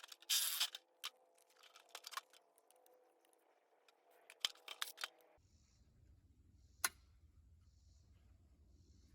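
A power drill runs briefly, then small sharp metallic clicks and clinks of tools and hardware being handled. About halfway through, the background changes abruptly to a low steady hum, with one more sharp click.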